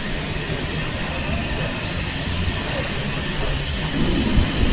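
Truck wash running: a steady low rumble with a constant high hiss, growing a little louder near the end.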